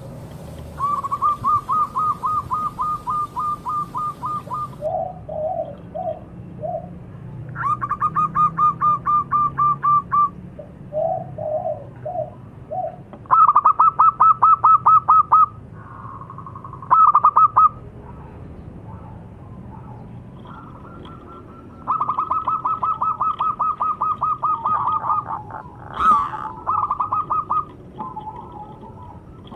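Zebra doves (perkutut) cooing: runs of quick, evenly repeated notes lasting a few seconds each, broken by short groups of lower coos.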